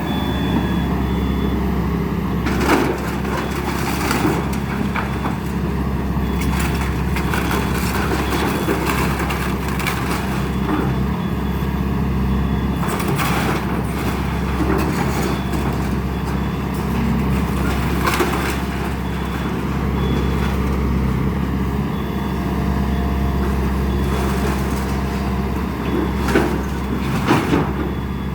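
Excavator's diesel engine running steadily, with wood cracking and crunching at intervals as a house's timber frame is broken apart in demolition.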